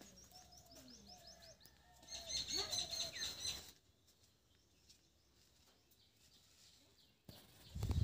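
Birds chirping in quick, repeated high calls, with lower calls beneath them. Just past halfway the sound drops to faint, and near the end a low thump and rumble comes in.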